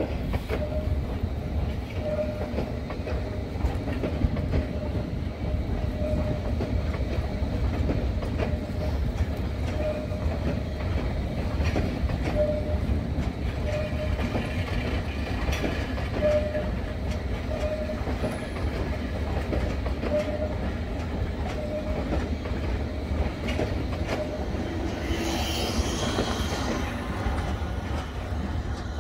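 London Underground S Stock train running along the track, a steady low rumble with a regular beat of wheels over rail joints about once a second. A brief higher screech of wheels on rail comes near the end.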